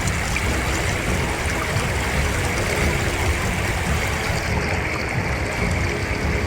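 Steady rush of flowing floodwater with a low rumble underneath.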